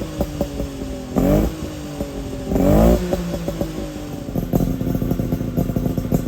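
Suzuki Jimny SJ30's two-stroke three-cylinder engine breathing through an APIO Matsumoto-style expansion chamber and muffler, idling with a crackly, uneven beat. It is blipped twice, at about one and three seconds in, and then settles into a faster rattly idle.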